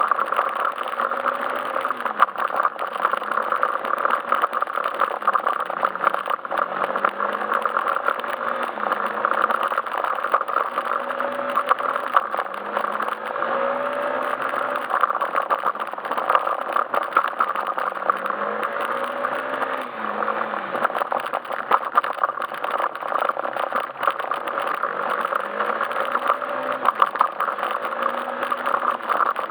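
Yamaha Majesty S scooter's single-cylinder engine running under way, its pitch rising and falling every couple of seconds as the throttle opens and closes, over steady riding noise with frequent small rattles and knocks.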